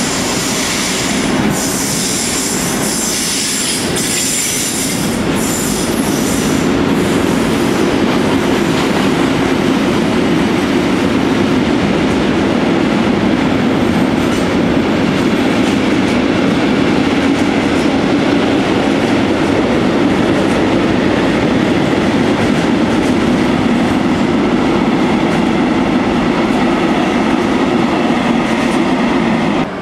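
Freight train passing through an underground station, a long line of covered freight wagons rolling by. A high-pitched wheel squeal is heard in the first few seconds as the locomotive arrives, then a steady loud rumble of the wagons.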